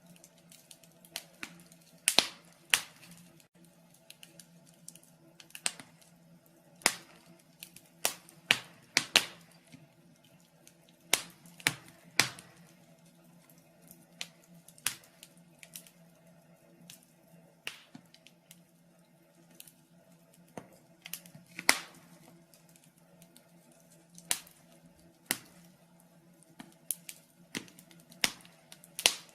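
Wood fire in a fireplace crackling: irregular sharp pops and snaps, roughly one a second and varying in loudness, over a faint steady low hum.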